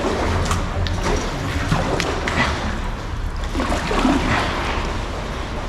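Kayak paddle strokes in canal water: splashes and trickling drips off the blades, over a steady low rumble.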